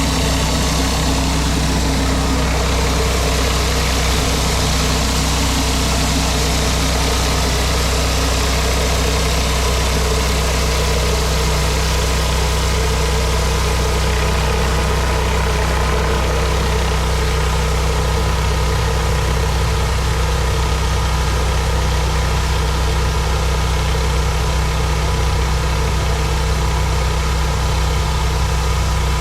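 Pressure washer's gas engine running steadily, with a constant hiss over it.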